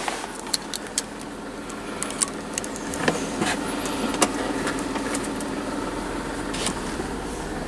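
Chrysler Sebring's engine running at a steady idle, heard from inside the cabin, with a few light clicks and knocks scattered through it.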